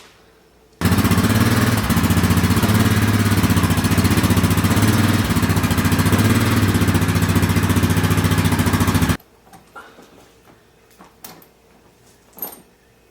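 A small engine running steadily at a fairly even speed. It cuts in suddenly about a second in and stops just as suddenly about eight seconds later.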